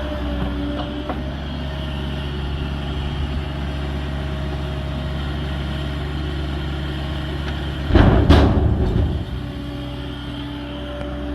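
Heavy machinery engine running steadily during barn demolition, with a loud crash about eight seconds in that lasts a second or so.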